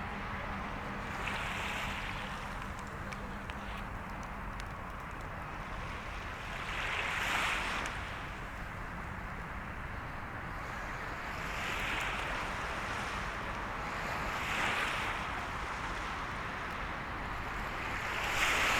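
Sea waves breaking and washing on the shore, a hissing surge swelling every few seconds, over a steady low rumble of wind on the microphone.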